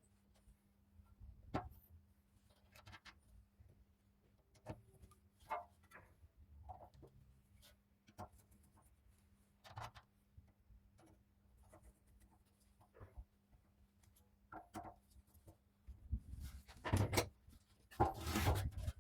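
Scattered small clicks, taps and rubbing from parts being handled on a workbench, over a faint steady hum. The handling gets louder and busier near the end, with a run of clattering.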